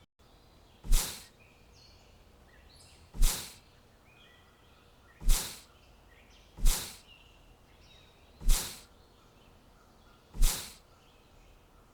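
Six short, sharp sound-effect hits at uneven gaps of one to two seconds, each dying away quickly, over faint high bird chirps.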